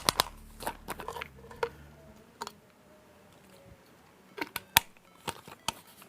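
Scattered sharp clicks and taps of small hard objects being handled, over a low steady hum that stops about two seconds in.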